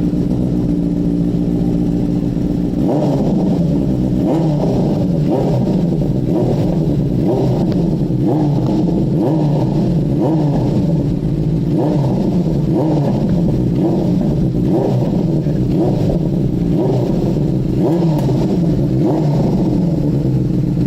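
Benelli TNT 600i inline-four motorcycle engine through an aftermarket Akrapovic exhaust, loud. It idles for about three seconds, then is revved over and over in quick throttle blips, roughly one a second, each rising and falling back toward idle.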